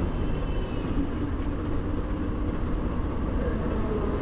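A bus running along the road, heard on board: a steady engine hum and road rumble.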